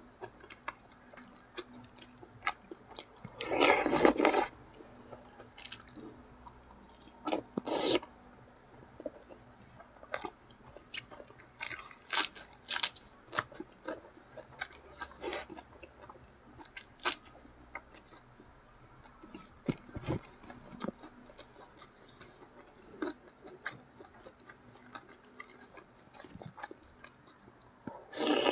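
Close-miked chewing and wet mouth clicks of a person eating catfish by hand. Short clicks are scattered throughout, with louder bursts about four seconds in, near eight seconds and at the end.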